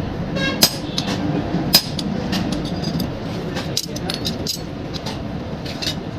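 Irregular hammer blows and metallic clinks on iron being forged, the two loudest about half a second and about two seconds in, over a steady background noise.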